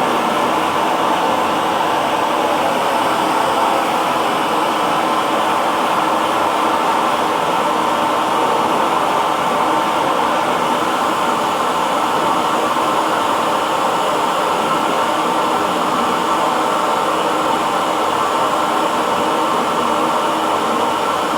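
Hair dryer running continuously: a steady, unchanging blowing hum with its motor whine and airflow.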